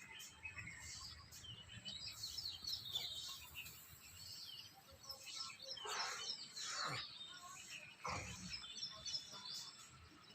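Birds chirping and calling over faint outdoor background noise, with a few louder calls about six to eight seconds in.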